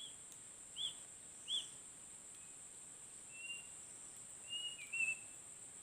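A bird calling: three short, arched chirps about a second apart, then a few thin, level whistled notes later on. A steady high-pitched insect drone runs underneath.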